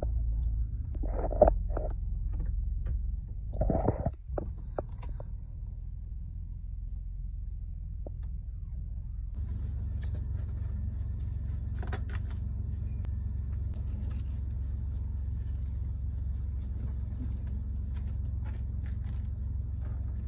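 Car driving, heard from inside the cabin with the trunk lid left open: a steady low rumble of engine and road, with a couple of short knocks in the first four seconds and louder road and wind hiss from about nine seconds in.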